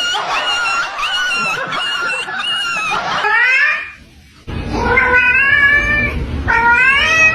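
Cat yowling in a string of long, drawn-out calls, several of them rising in pitch, with a short pause about four seconds in.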